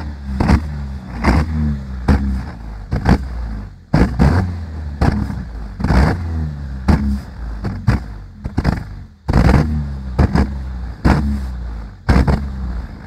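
Car engine revved in repeated throttle blips, with loud sharp bangs from the exhaust as a flame-thrower exhaust kit fires. There are several bangs in each rev and a few short dips between revs.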